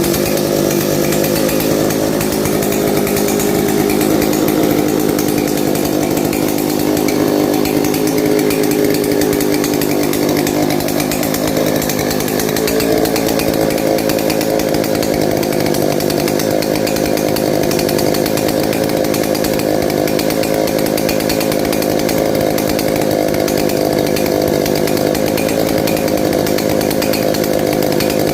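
Octagon 070 chainsaw's large two-stroke engine running loud and steady at speed, its pitch shifting a little about twelve seconds in and then holding.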